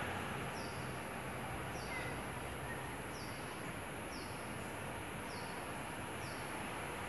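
A bird repeating a short, high, falling call note about once a second over a steady background of outdoor noise.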